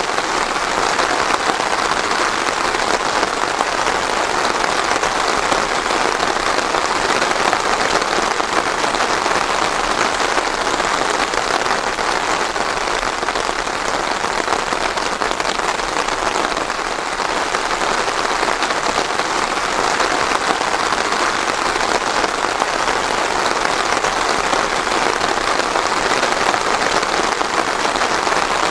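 Steady, heavy rain falling, an even unbroken hiss with no thunder.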